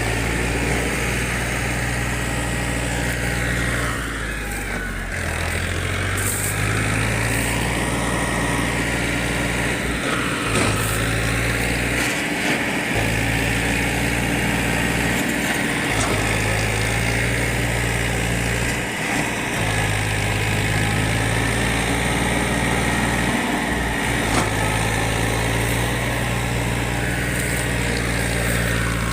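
Tractor engine running steadily, its note dipping briefly about four seconds in and then recovering.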